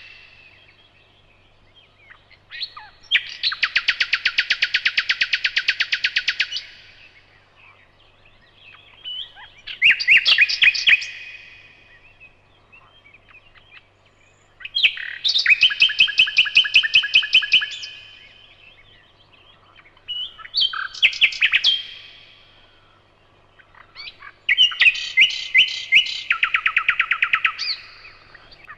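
Nightingale singing: five phrases of fast rattling runs of repeated notes, each lasting one to four seconds, with pauses of a few seconds between them.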